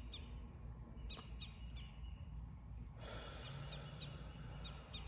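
Small birds chirping: short high chirps in little clusters, more frequent in the second half, over a low steady background rumble.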